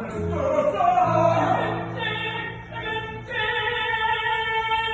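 Music with operatic singing: a sung passage that settles into long held notes over a sustained accompaniment.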